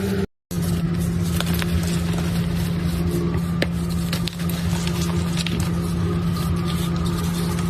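A steady machine-like hum with scattered small crackling clicks over it; the sound cuts out briefly just after the start.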